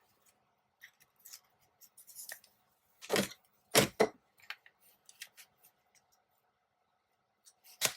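A hand stapler restapling a paper tag. Light paper rustling and small clicks, with a few sharp snaps about three and four seconds in and another near the end.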